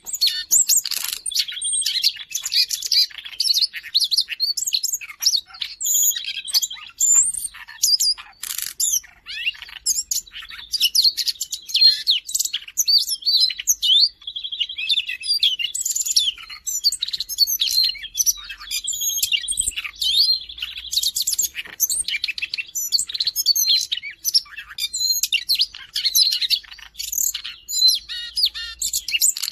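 Siberian rubythroat singing continuously: a fast, varied warble of high chirps and whistles, broken several times by a buzzy trill held on one pitch for a second or two.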